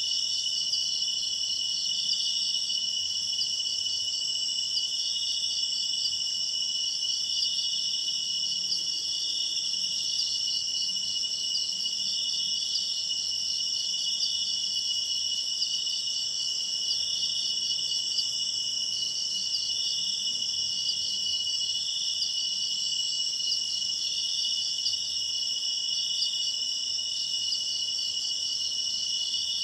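A steady chorus of night insects such as crickets, several high trills at once, with one of them swelling about every two seconds.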